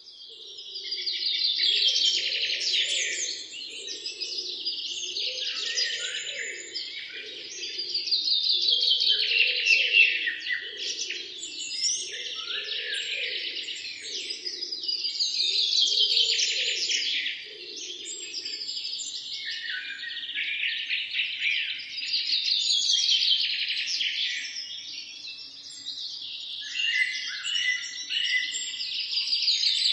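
Several songbirds singing together: overlapping chirps and falling trills that swell every few seconds. A low pulsing call beneath them stops about two-thirds of the way in.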